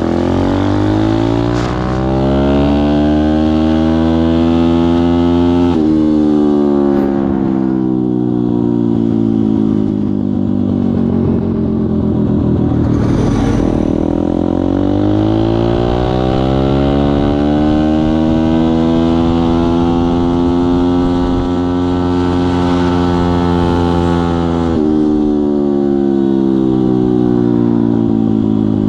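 Pit bike's single-cylinder four-stroke engine being ridden hard, its pitch climbing under throttle and then dropping suddenly, twice: about six seconds in and again near the end.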